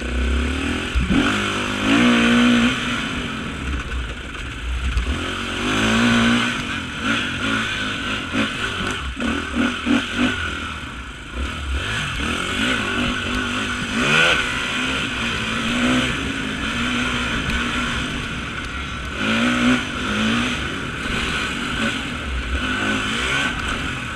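Off-road racing motorcycle engine revving up and dropping back over and over, every couple of seconds, with clatter over it.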